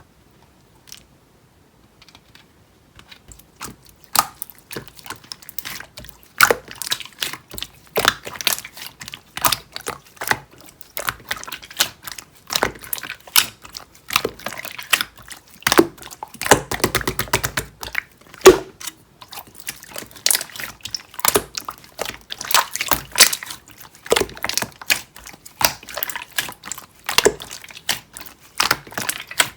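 Clear jelly-textured slime being squished and pressed by hand, making a run of sticky clicks and pops that starts a few seconds in, with a dense crackling stretch about halfway.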